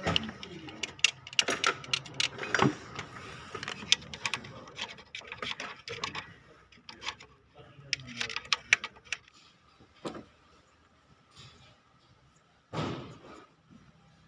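Plastic rustling and a dense run of light clicks and taps as a new valve cover gasket is unwrapped and handled for fitting, thinning to a few scattered taps, with one short rustle about thirteen seconds in.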